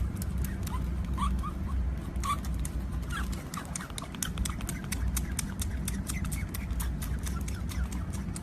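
Short chirping animal calls, scattered among a rapid, irregular patter of clicks over a steady low rumble.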